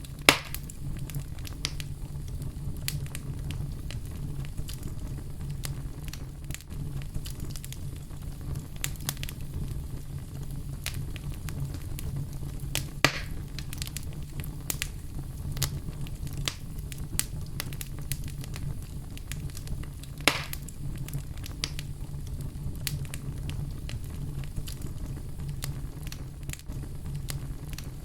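Fire in a fireplace crackling: a steady low rush of flame under constant small crackles, with a few louder pops near the start, about halfway through and about two-thirds of the way in.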